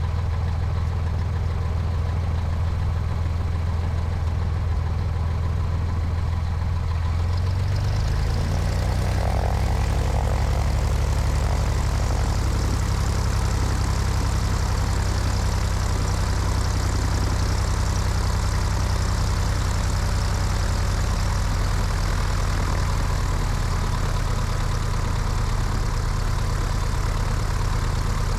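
Cessna 172's piston engine and propeller running steadily, with wind noise, heard from the wing. About eight seconds in the engine note changes and more hiss comes in, then it holds steady.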